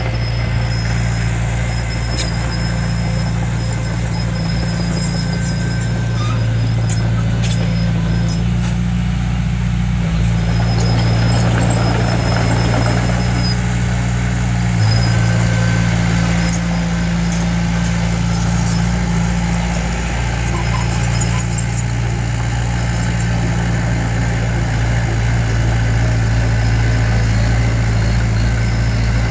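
Heavy construction machine's engine running steadily, a low even drone, with faint high squeaks and a few light clanks over it.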